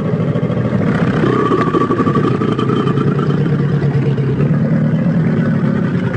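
Purussaurus creature sound effect, a deep, rough, rumbling growl held without a break, built from crocodilian and lion recordings.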